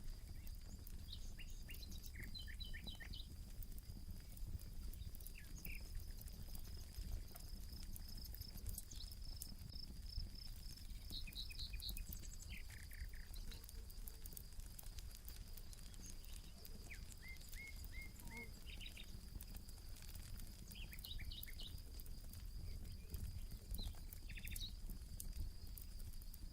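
Campfire crackling with scattered sharp pops, while small birds call in short groups of quick repeated chirps. A steady high-pitched tone and a low rumble run underneath.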